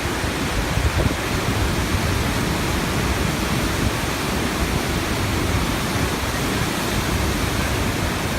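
Dudhsagar Falls' water rushing down: a steady, loud, even noise without pause.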